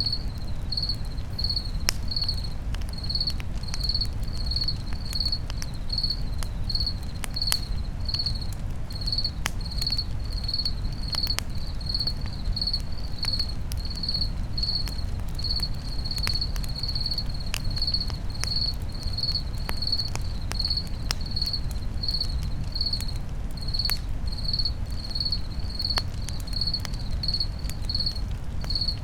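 A cricket chirping steadily, about three chirps every two seconds, over a crackling campfire with scattered sharp pops and a low steady rumble.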